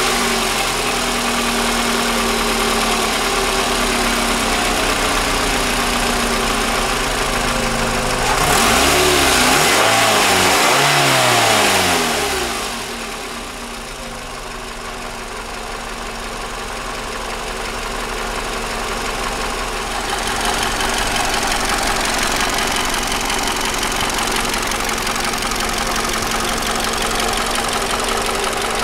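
Toyota 2AZ-FE 2.4-litre inline-four engine idling under an open hood. About a third of the way in it is revved twice, the pitch rising and falling, then settles back to a steady idle.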